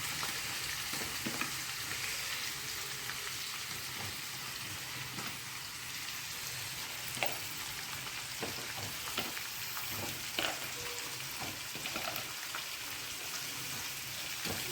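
Oil sizzling steadily in a cooking pot with fenugreek leaves frying in it, with scattered light clicks of a spoon stirring against the pot.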